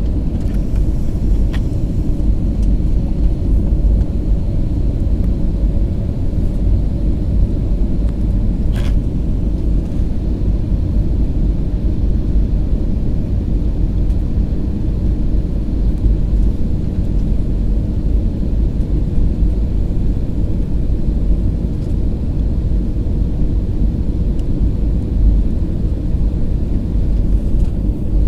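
Steady low rumble of an airliner during landing, with a couple of faint clicks.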